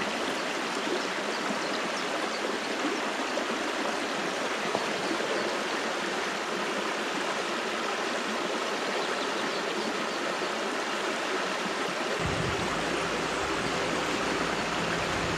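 Stream water flowing steadily over rocks, an even rushing. About twelve seconds in, a low rumble of wind on the microphone joins it.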